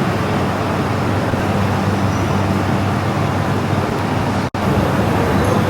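Steady machine-shop noise: an electric motor humming under a continuous mechanical rumble from a metal shaper, cut off for an instant about four and a half seconds in.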